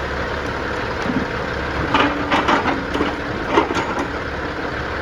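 Logs knocking and cracking against each other in a quick run of wooden thuds from about two seconds in, as a log slides on the load, over the steady running of the log loader's engine.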